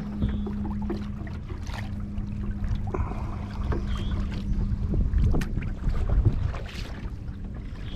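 Kayak paddling: paddle strokes splashing and dripping on the water, with wind rumbling on the microphone and a steady low hum that fades near the end.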